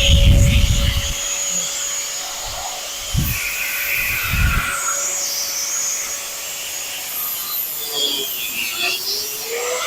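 A high-speed power tool whines steadily while cutting into the Charger's quarter-panel sheet metal. Its pitch sags under load near the end and then climbs back, over gritty cutting noise and a few low thumps.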